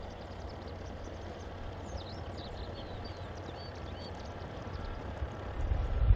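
Outdoor ambience: a steady low wind rumble on the microphone, with a few quick bird chirps about two to three seconds in.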